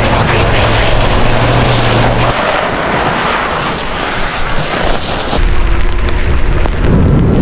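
Ram 1500 pickup running with a steady engine hum, which gives way about two seconds in to a loud rushing noise as the truck drives in the snow. A deeper engine rumble comes back near the end.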